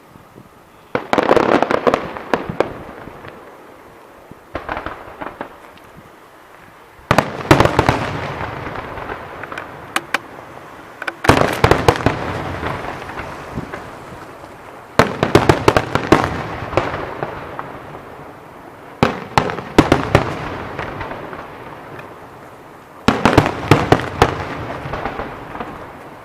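Fireworks going off in volleys about every four seconds. Each volley opens with a cluster of sharp bangs and dies away in a rattle of smaller reports.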